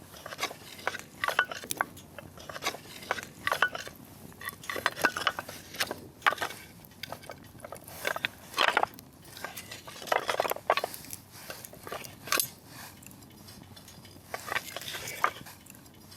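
Wood bonfire crackling, firewood popping and snapping in irregular sharp cracks, with a few denser bursts of crackle about halfway through.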